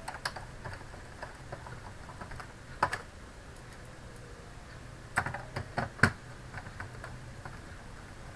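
Small scattered clicks and taps of screws being fitted with a screwdriver into an SSD's mounting bracket, with a sharper click about three seconds in and a few louder clicks near the end.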